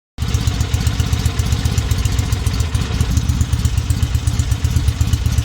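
Freshly rebuilt 1963 Norton SS 650 air-cooled parallel-twin engine running steadily with a rapid, even exhaust beat. It cuts in abruptly just after the start.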